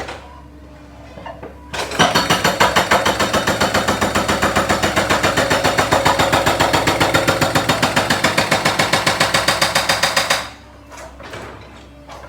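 Giant jackhammer breaking up a concrete road surface. It starts about two seconds in with rapid, even blows, about seven or eight a second, and stops about ten seconds in. Only a few scattered knocks follow.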